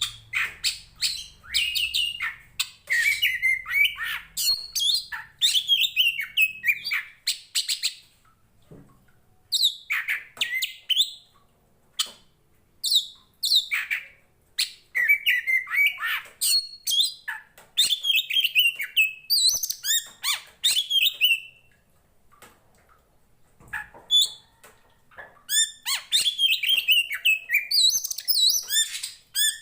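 Oriental magpie-robin singing in long runs of rapid, varied whistles, trills and harsher notes, broken by two short pauses of a second or two.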